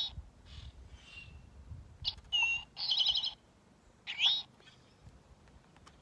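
Eastern towhee singing its 'drink-your-tea' song: a clear note followed by a fast trill, about two seconds in, then a rising slurred call just after four seconds.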